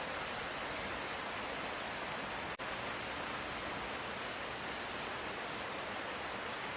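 Steady light rain, an even hiss, which cuts out for an instant about two and a half seconds in.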